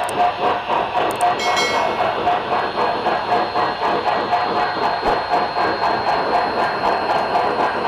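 HO scale model steam locomotive's LokSound sound decoder playing steam exhaust chuffing through its on-board speaker, in a steady rhythmic beat. A brief high-pitched ringing tone sounds about one and a half seconds in.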